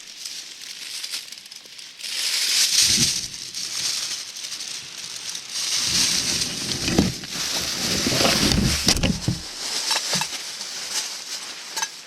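Rustling and crinkling of handled material, with low knocks about three seconds in and a busier run of them through the middle.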